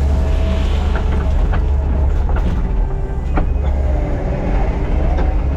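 Diesel engine of heavy earthmoving equipment running steadily, with scattered sharp knocks and clanks from the machine's tracks and the stone being worked.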